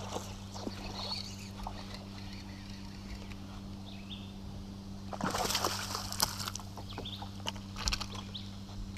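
A largemouth bass blows up on a hollow-body topwater frog about five seconds in: one sudden splash at the water's surface lasting about a second, followed by a few sharp clicks. A steady low hum runs underneath.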